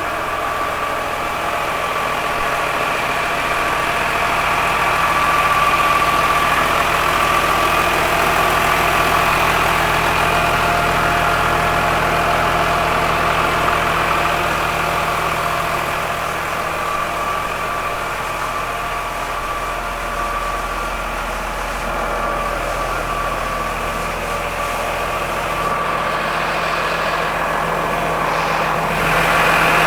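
Massey Ferguson 6490 tractor's diesel engine idling steadily.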